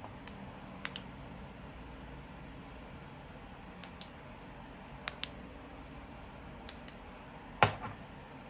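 Light clicks, several in close pairs, and one louder knock near the end, over a faint steady hum.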